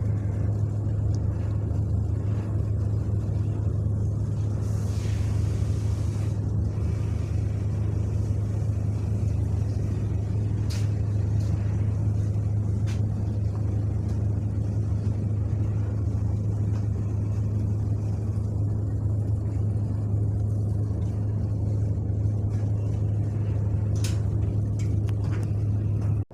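A ship's diesel engine running steadily: a constant low drone with a strong deep hum, unchanging throughout, cutting off suddenly at the very end.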